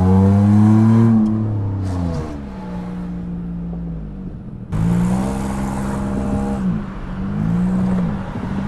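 Dodge Charger V6 engine heard from inside the cabin, accelerating hard through the gears: the revs climb and drop at a shift in the first two seconds, settle lower, then the engine note jumps suddenly louder about halfway through and rises and falls again near the end.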